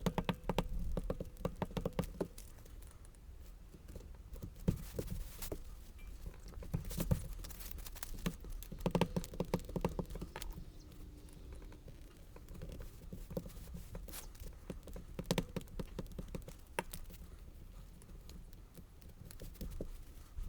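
Light, irregular clicks, taps and rustles of card and paper being handled and worked on a craft table.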